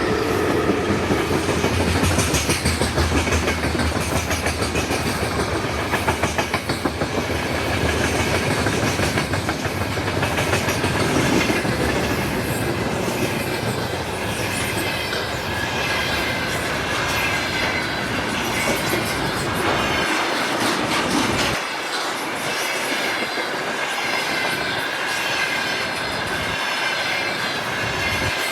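Freight train wagons rolling past, the wheels clicking rapidly over rail joints, with a steady high squeal from the wheels. The deep rumble drops away about two-thirds of the way through.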